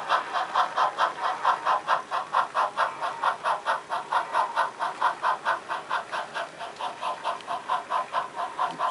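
Simulated steam exhaust chuffing from an HO scale model steam locomotive's onboard sound system, a steady beat of about four to five chuffs a second as the engine runs along the layout.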